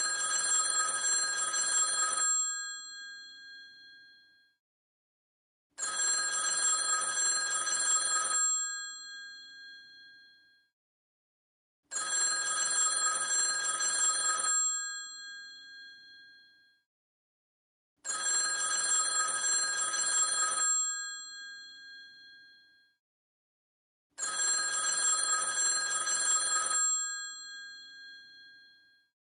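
An old telephone's bell ringing in its regular cadence: five rings of about two and a half seconds each, one roughly every six seconds, each ring dying away before the next.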